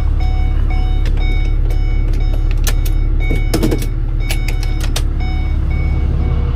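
Truck engine idling with a steady low rumble, under a vehicle warning chime beeping about twice a second, which stops briefly in the middle. Scattered metallic clinks run through it, with a louder scraping clatter a little after three seconds in, from work on the truck's driveshaft.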